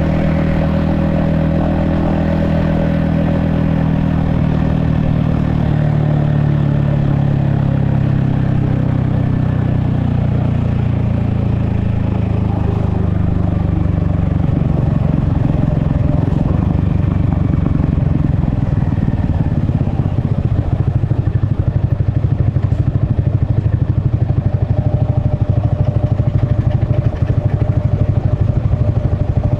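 Yamaha XSR155's 155cc single-cylinder engine and exhaust. It winds down, its pitch falling steadily over the first half as the bike slows, then runs at low revs with slow, distinct firing pulses.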